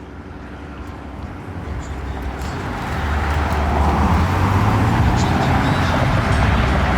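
A car's engine rumbling as it drives toward the microphone, growing steadily louder over the first four seconds and then holding at a steady level.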